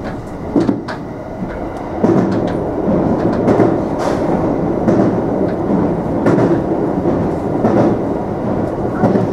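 A JR West 227 series electric train running at speed: a steady rumble of wheels on rail, with a click from the wheels crossing rail joints every second or so, heard from inside the leading car.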